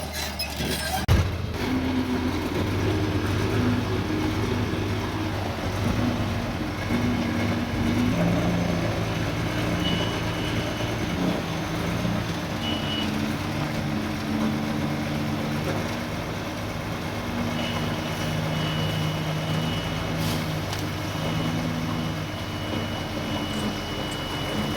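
Heavy diesel earthmoving machinery running, its engine note stepping up and down with the load as it works, with a knock about a second in.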